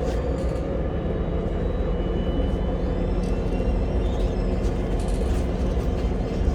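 Steady running rumble heard from inside a moving public-transport vehicle, with faint thin high squeaks and a few light rattles now and then.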